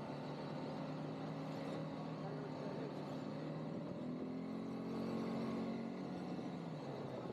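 ATV engine running steadily at low speed, its pitch rising a little in the middle and then easing back.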